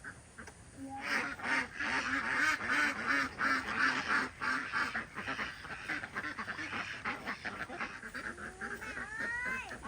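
A flock of domestic waterfowl calling, many short calls overlapping in a busy, continuous chorus that starts about a second in.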